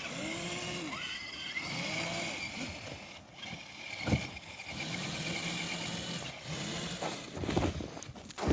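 Electric motor and gears of a radio-controlled crawler truck whining, the pitch rising and falling as the throttle is worked, with a single knock about four seconds in.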